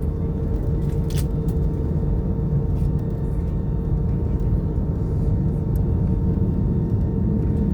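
Cabin noise inside an Airbus A320 taxiing, its CFM56-5B engines at idle: a steady low rumble with a steady hum above it and a single click about a second in.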